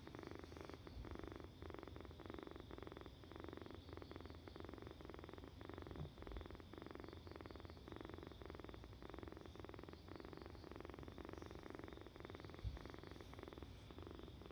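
A kitten purring quietly and steadily, the purr pulsing evenly with its breathing.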